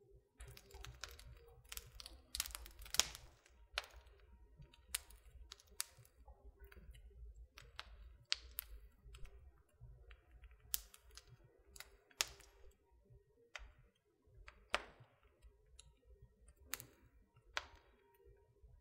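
Wood fire crackling in a fireplace: irregular sharp pops and snaps, a cluster of them about two to three seconds in, over a low steady rumble of burning.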